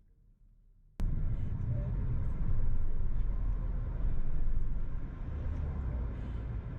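Car driving: a steady rumble of road and engine noise that cuts in abruptly about a second in.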